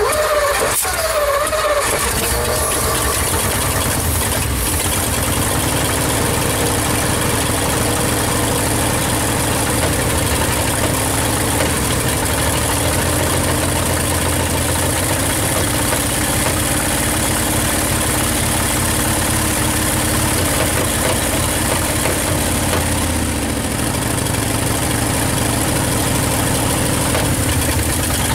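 1959 Ford Custom 300's 292 V8 catching and running steadily on its first start after sitting 46 years. The revs rise briefly as it catches, then sag a little over 20 seconds in and pick up again.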